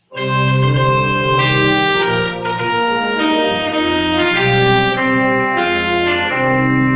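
Organ playing held chords that change about once a second, starting suddenly out of silence.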